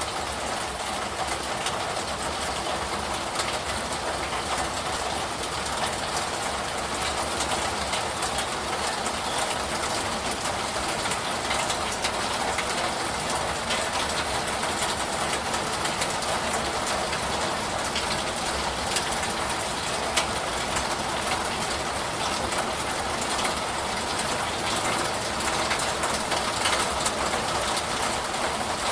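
Steady rain falling: an even hiss with a low rumble underneath and scattered sharper drop ticks.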